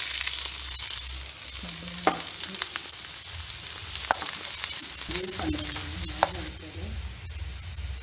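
Chopped red onions sizzling in hot oil in a non-stick frying pan, stirred with a spatula that clicks and scrapes against the pan. The sizzle eases about six and a half seconds in.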